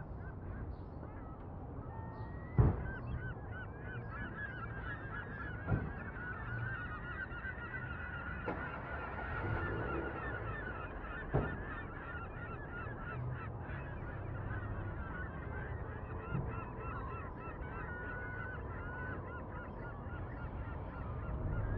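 A flock of birds calling in a dense, continuous chorus of short repeated calls, over a steady low rumble. Three sharp knocks cut through, the first and loudest a couple of seconds in.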